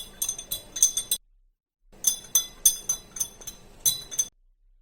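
A metal spoon stirring liquid in a glass, clinking repeatedly against the sides in quick, irregular strokes that ring briefly. The sound drops out completely twice for a moment.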